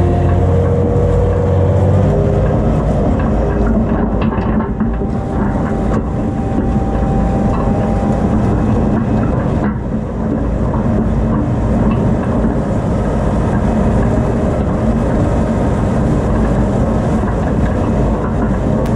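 Farm tractor engine running steadily under load while pulling a disc harrow across a field; the engine note shifts about two seconds in.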